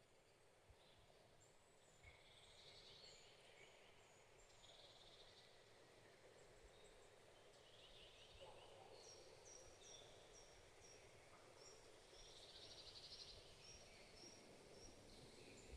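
Faint woodland birdsong from several birds: short high chirps, with a quick run of repeated falling notes about two-thirds of the way through, and a few buzzy trills, over a soft background hiss.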